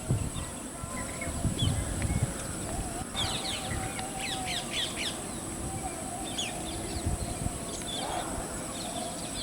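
Birds calling: bursts of short, high chirps about three seconds in and again around six to seven seconds, over a steady high hiss.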